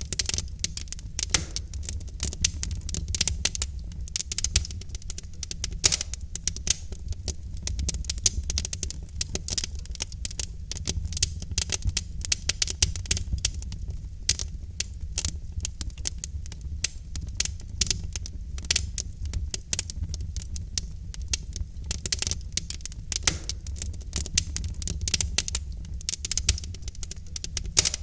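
Wood fire crackling steadily, with dense irregular pops and snaps of burning logs over a low rumble of the flames.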